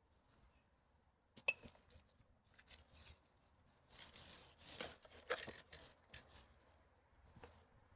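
Irregular rustling and crackling of rubbish and dry forest litter being handled, in short bursts with sharp clicks, loudest in the middle.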